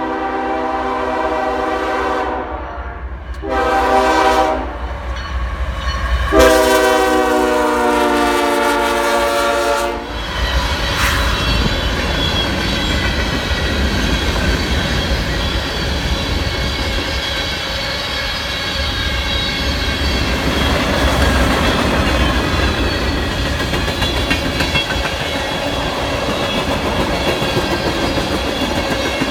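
Canadian Pacific freight locomotive sounding its multi-chime air horn three times for a grade crossing: a long blast, a short one, then a longer, louder one ending about ten seconds in. Then the locomotives and a long string of covered hopper and tank cars rumble past close by, their wheels clicking over the rail joints.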